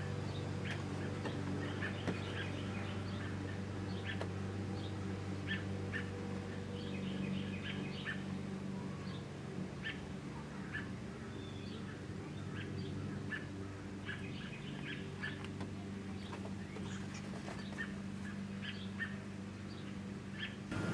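Birds giving short, scattered chirps, over a steady low hum.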